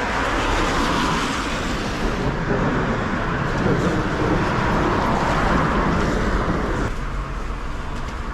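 Road traffic noise: a passing vehicle's tyre and engine noise that builds at the start and falls away about seven seconds in.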